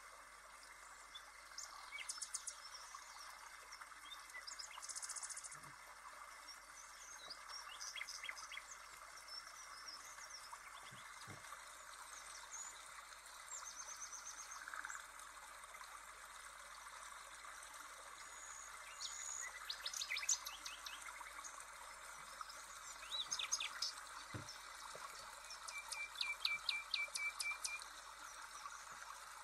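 Birds singing: scattered short chirps and trills, with a fast run of repeated chirps near the end, over a faint steady hiss.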